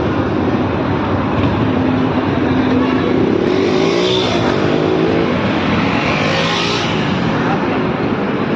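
A 450cc sport motorcycle engine running hard, its pitch climbing in two rises of revving, about halfway through and again near the end.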